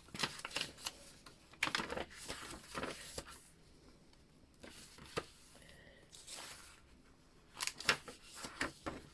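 Paper and card rustling and crinkling as the pages, tags and envelopes of a thick handmade paper journal are turned and handled. The rustles come in scattered clusters, with a quieter stretch in the middle and more near the end.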